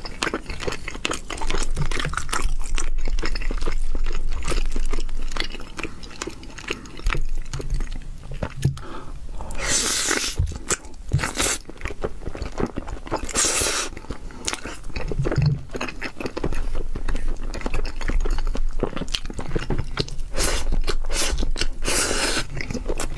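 Close-up chewing and wet mouth sounds of a person eating eel rice, with a wooden spoon scooping from the plate. There are many small clicks, and two louder noisy stretches of about a second each, around ten and thirteen seconds in.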